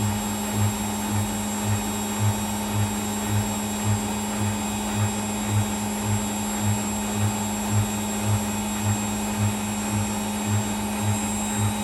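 Whirlpool WWDC 7440 front-loading washing machine in a high-speed spin: a steady motor hum and whine with a low thump repeating about twice a second.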